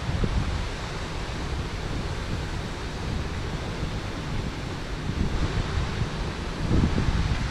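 Steady rush of water pouring over a small river weir, with gusts of wind buffeting the microphone as an uneven low rumble.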